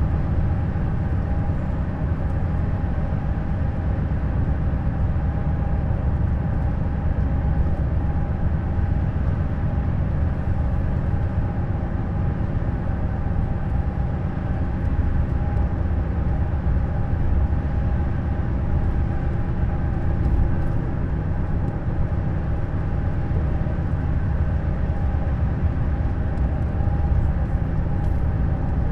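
Neoplan Skyliner N 1122/3C double-decker coach running steadily: a constant low rumble with a steady whine above it, unchanging in pitch.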